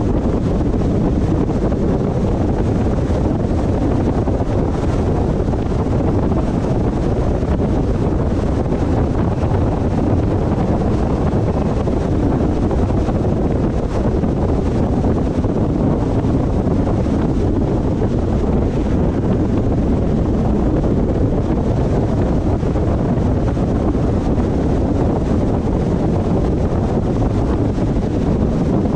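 Car driving steadily on the road: a low, even rumble of tyre and wind noise with no breaks.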